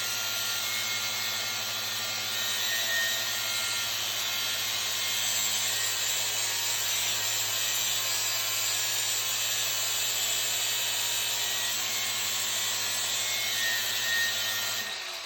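Angle grinder grinding a bevel and land on a pipe end as it turns on a welding positioner. The grinding runs steadily and cuts off near the end.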